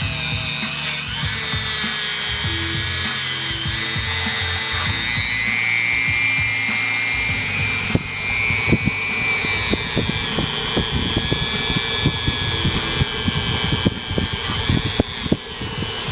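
Dremel-type rotary tool with a wire wheel, running with a high whine that drifts in pitch as it scrubs carbon deposits off a cylinder head. From about eight seconds in, scraping and rapid ticking grow stronger.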